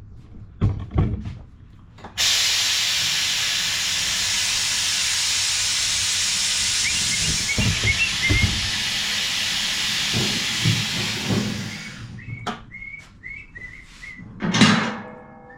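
Mower lift table being lowered, with a steady hiss of released air that starts abruptly a couple of seconds in and lasts about ten seconds before it dies away. A few short knocks come before and after the hiss.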